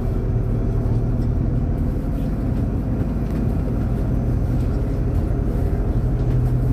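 MAZ-203 city bus heard from inside the passenger cabin while driving: a steady low engine drone with road and rattle noise.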